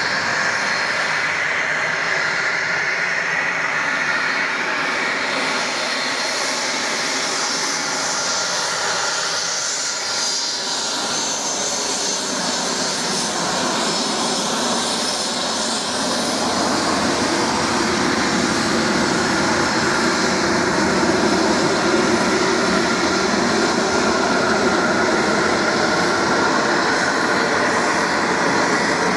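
Embraer Phenom 300 light business jet's twin turbofan engines running steadily, a continuous jet rush with a faint high whine. The sound grows fuller and slightly louder about halfway through.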